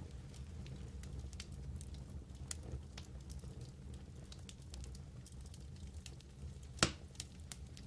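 Wood fire burning in a fireplace, crackling with frequent small snaps over a low steady background, and one loud pop near the end.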